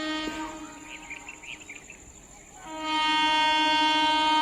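Indian Railways electric locomotive's horn sounding two steady blasts on one pitch: the first ends about half a second in, and after a pause of about two seconds a second, louder blast begins and holds on.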